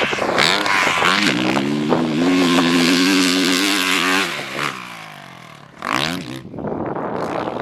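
Honda CRF450R single-cylinder four-stroke dirt bike engine revving hard under throttle, its pitch climbing and stepping, for about four seconds. It then backs off and fades, and gives a short burst of throttle about six seconds in.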